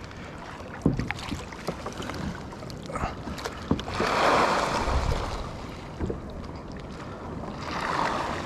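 Water sloshing and splashing against a kayak, swelling twice in a slow wash, with small knocks and drips and a low wind rumble.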